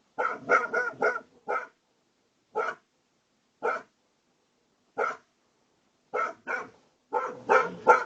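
A dog barking: a quick run of barks at the start, then single barks about a second apart, and another quick run near the end.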